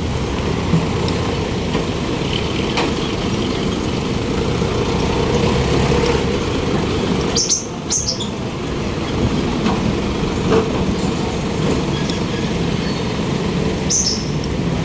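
City street traffic heard from a moving bicycle: a steady, dense rumble of passing cars and other motor vehicles. There are a few brief high-pitched squeaks, about halfway through and again near the end.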